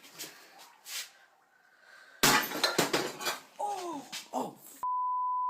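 A sudden loud crash-like clatter about two seconds in, followed by a brief shouted exclamation, then a steady one-note censor bleep near the end covering a swear word.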